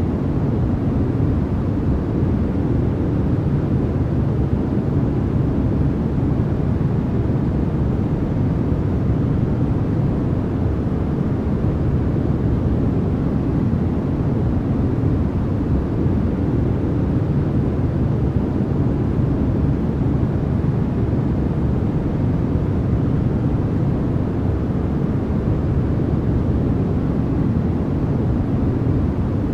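Continuous generated white noise for sleep, a steady, even rushing hiss that never changes, weighted toward the deep end so it sounds more like a low rumble than a bright hiss.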